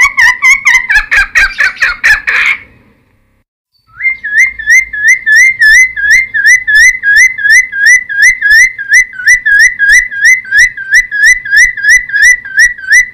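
Cucak timor singing: a quick chattering phrase, a short pause about three seconds in, then a long even run of repeated hooked whistled notes, about three a second.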